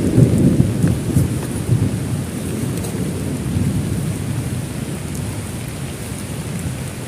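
Thunder rumbling over steady heavy rain, the deep rumble loudest at first and slowly fading away, with scattered drop ticks in the rain.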